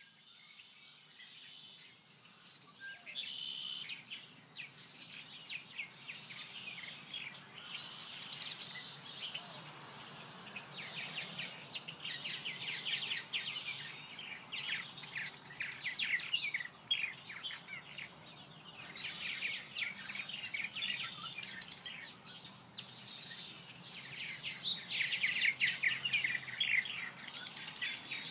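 A chorus of many small songbirds chirping and twittering, rapid short high-pitched chirps overlapping, growing busier in the second half.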